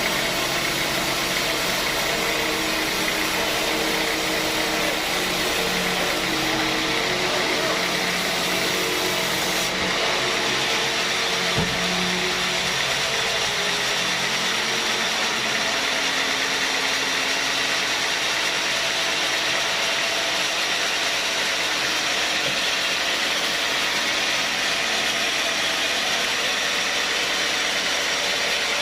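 Sawmill saw running with a steady, even mechanical noise, keeping the same level without a break.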